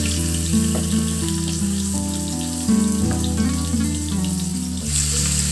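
Raw chicken pieces sizzling as they are added to hot oil and onions in a wok, under background music with a steady bass line.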